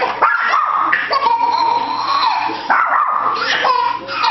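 A dog whining in a few long, high-pitched cries.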